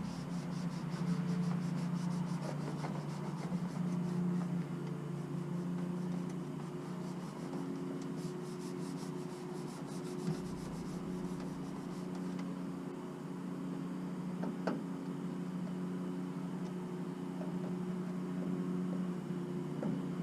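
Quick repeated rubbing strokes as a vinyl decal is smoothed down onto a truck's body, over a steady low hum; one sharp tap about fifteen seconds in.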